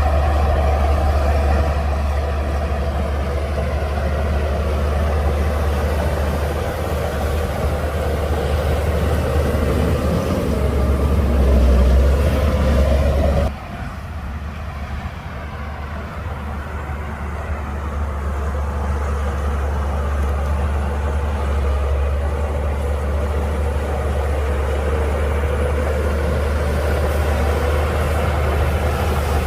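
Shantui DH17C2 crawler bulldozer's diesel engine running with a steady low drone. It swells slightly, drops suddenly about halfway through, then carries on steadily a little quieter.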